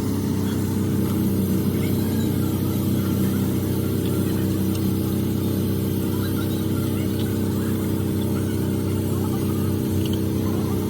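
A steady, low engine drone running evenly with no change in speed.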